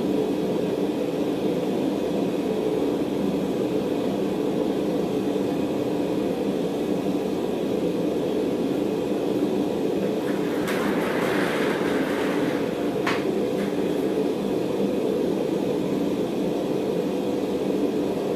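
Forge burner running with a steady rushing noise, heating the steel bar. About two-thirds of the way through there is a short hiss and a single sharp click.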